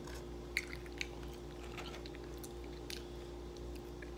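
Close-miked eating: chewing of chicken and pita, with scattered small clicks and rustles as fingers pick at the food in a takeout container, over a steady low hum.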